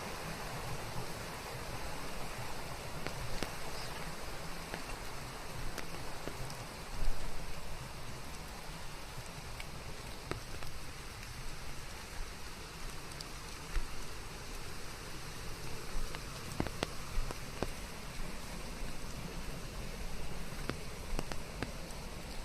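Steady rain, with scattered single drops ticking on a surface through the hiss and a brief louder spell about seven seconds in.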